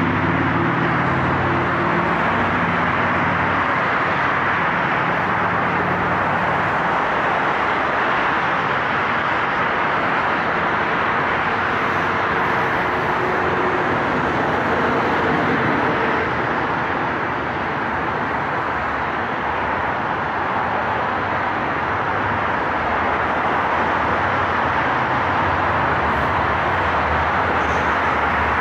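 German ICE high-speed train rolling past: a steady rush of wheels on rail, with a low hum that fades out after about five seconds.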